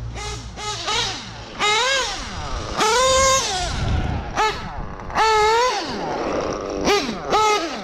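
Small single-cylinder nitro engine of an RC car, an LRP, revving hard in repeated bursts: each time the pitch climbs to a high scream, holds briefly, then drops away as the throttle is let off or the car passes, about six times.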